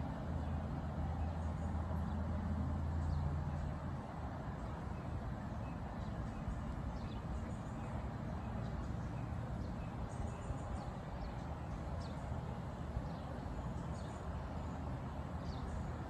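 Short, high bird chirps come here and there over a steady low background rumble. A low engine hum runs under them and stops about four seconds in.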